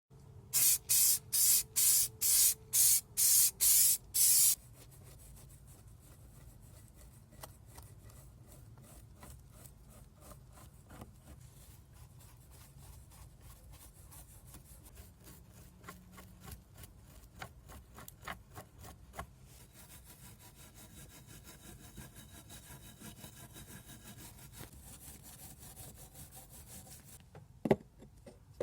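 Hand rubbing on a small scale-model car part: eight quick, loud rasping strokes about two a second, then a long stretch of quieter fine scraping with scattered light ticks. A few sharp taps come near the end.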